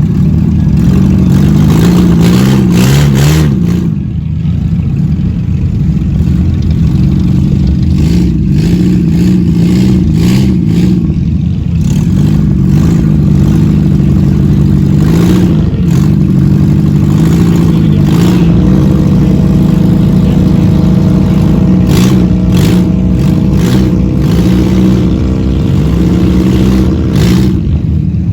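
Race car engines running hard around the track, their pitch rising and falling continuously as they rev up and ease off.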